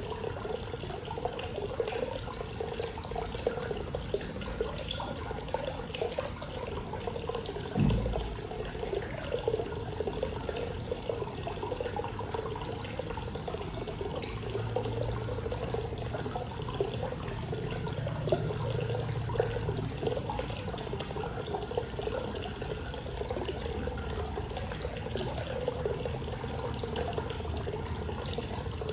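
Hot spring water pouring steadily into a bath, with a low thump about eight seconds in.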